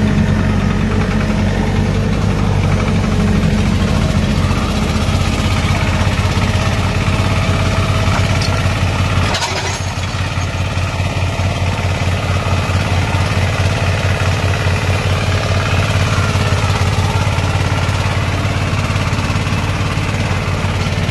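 Tractor engine running steadily under load, its low rumble dipping slightly and settling into a more even pulse about nine seconds in.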